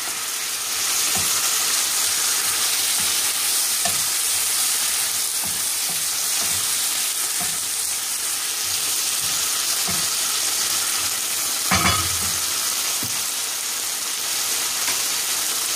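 Diced chicken and red onion sizzling in a nonstick frying pan without oil, stirred with a wooden spatula: a steady hiss with scattered light scrapes and knocks of the spatula on the pan. There is one louder knock about 12 seconds in.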